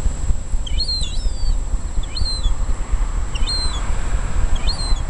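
A bird calling in short, high chirping notes with quick up-and-down pitch, about one call a second, over a steady low rumble.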